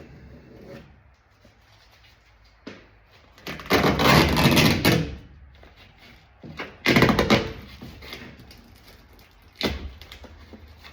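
Tape and plastic sheeting being peeled and ripped away from the inside of a door: two loud, rasping tears a few seconds apart, with a couple of short knocks.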